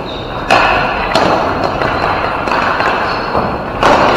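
Ball hockey play in an echoing rink: three sharp thuds and knocks, about half a second in, a little after a second, and near the end, over a steady noisy din.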